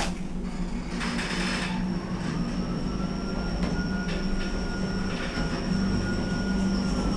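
Older MP lift car travelling: a steady low drive hum with a thin whine that comes in about two seconds in, holds steady, and dies away near the end.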